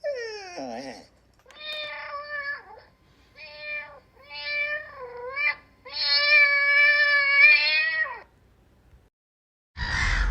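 Domestic cat meowing: a quick falling call, then four drawn-out meows, the last and loudest about two seconds long.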